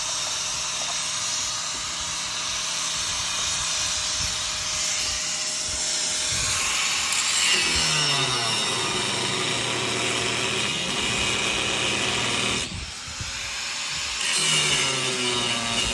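Handheld power tool running and cutting, its motor pitch dropping as it takes load. It stops briefly about three-quarters of the way through, then starts up and bogs down again.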